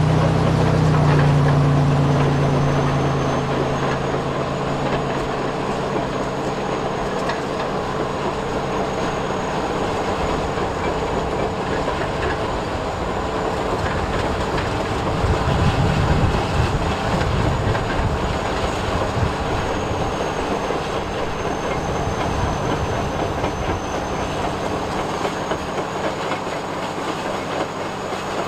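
Radio-controlled construction models working: small electric motors and gearing running with a continuous clattering noise. A thin high whine comes in about two seconds in, and there is a louder low rumble for a few seconds past the middle.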